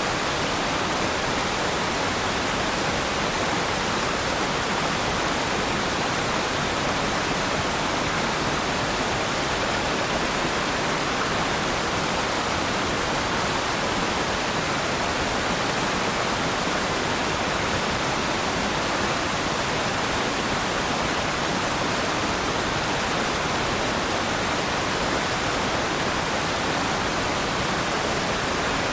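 Waterfall: a steady, even rush of falling water without a break.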